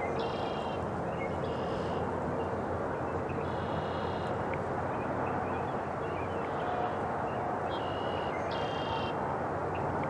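A bird giving short, high calls, about six of them at irregular intervals, over a steady rushing background.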